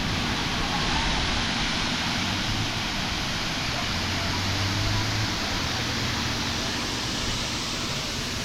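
Steady rush of water pouring over the Srinivasa Sagara dam's overflow falls, an even hiss without breaks.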